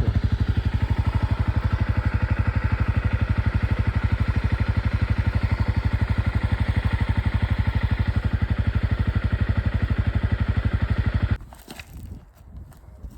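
ATV engine running steadily under way, a rapid even pulsing with a strong low end. It cuts off abruptly about eleven seconds in, leaving only faint rustling and a few clicks.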